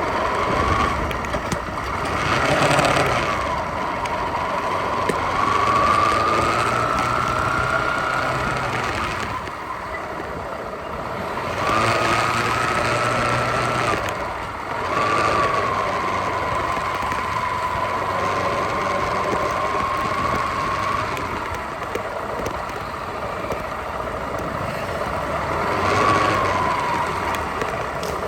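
Motorcycle riding along a road: a steady running noise with a thin whine that rises and falls slowly with speed, several times.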